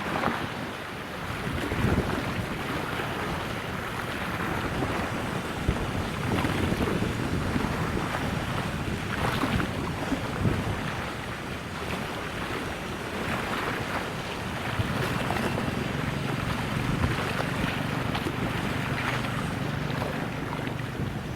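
Wind buffeting the microphone over the wash of river water, in uneven gusts. About two-thirds of the way through, a low steady engine hum joins in.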